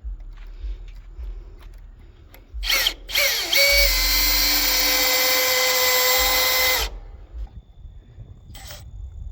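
Power drill drilling a hole in wood. It gives a short burst, then spins up to a steady whine for about three seconds and stops abruptly.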